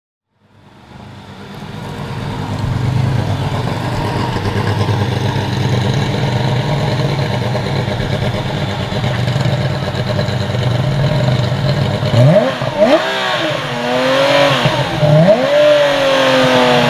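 Historic racing car engine fading in and growing steadily louder. About twelve seconds in, the revs climb and drop several times as it works through the gears, and this is the loudest part.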